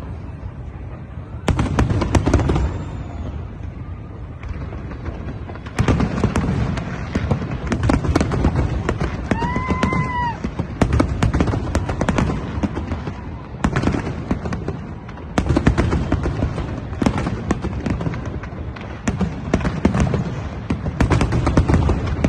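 Fireworks going off in a dense barrage of rapid bangs and crackles, thinner for the first few seconds and then a near-continuous volley with heavier booms in waves. A short pitched whoop-like tone cuts in about ten seconds in.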